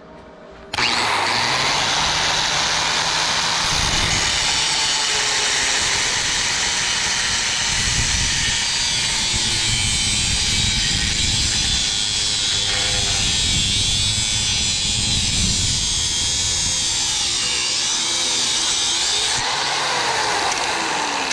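A power tool running continuously at full speed, starting abruptly about a second in, with its pitch sliding down near the end.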